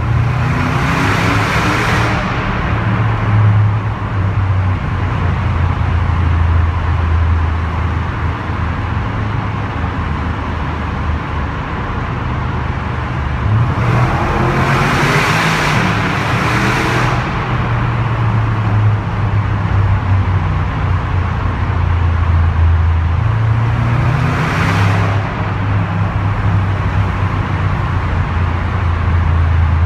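Tuned TechArt Grand GT (Porsche Panamera) twin-turbo V8 heard from inside the cabin while driving through a tunnel: a steady low drone, with three short pulls where the engine note rises and the exhaust grows loud, right at the start, about halfway through, and again some ten seconds later.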